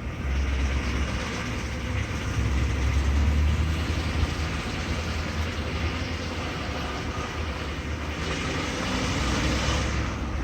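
Ford engine running with a ticking noise.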